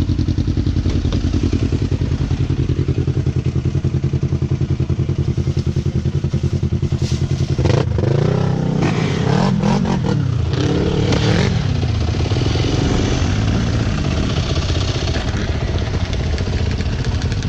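Small off-road engine idling with a steady pulsing beat. It is revved up and down several times in the middle, then settles back to idle.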